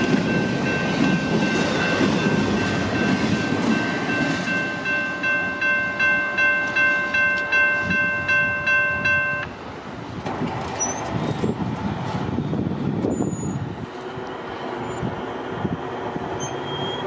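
The tail end of a CSX freight train rolling past a grade crossing, its wheels rumbling on the rails, while the crossing's warning bell rings about twice a second. The bell stops abruptly about nine and a half seconds in, and the train sound fades away after it.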